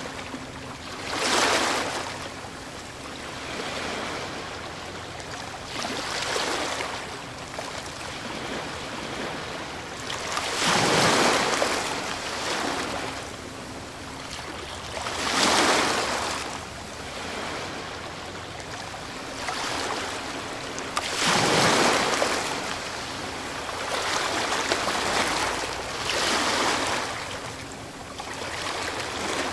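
Ocean waves breaking on a shore, a hiss of surf that swells and recedes every few seconds. The biggest breaks come about a tenth of the way in, about a third of the way in, around the middle, about three quarters of the way in and near the end.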